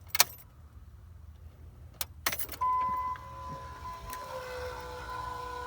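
Keys and a few sharp clicks as the ignition is switched on, then the aftermarket FASS electric fuel pump starts a steady whine, priming the freshly changed fuel filters and building fuel pressure.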